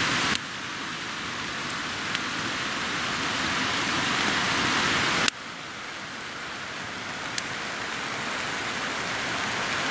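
Steady heavy rain hissing, with a couple of faint ticks. The rain sound drops suddenly in level twice, about a third of a second in and again about five seconds in, and slowly builds again after each drop.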